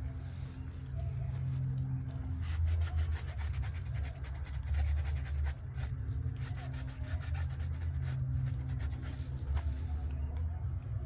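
Washer dryer running with a low hum that swells and fades every second or two over a steady tone, with a run of rapid clicking or rattling through the middle.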